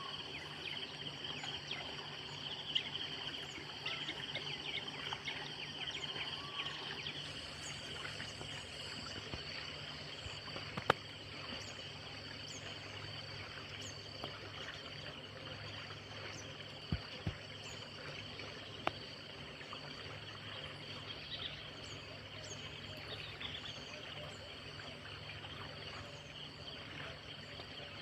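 Outdoor riverside ambience: insects chirring steadily at a high pitch, with a few sharp clicks or knocks partway through.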